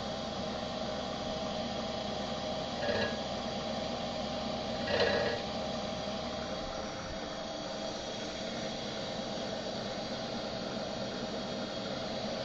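Comet 3KVHD knee mill running with a two-flute center-cutting end mill at about 800 rpm, fed down gently into a wheel: a steady motor and spindle hum, with two brief scraping bursts of the cutter biting about three and five seconds in.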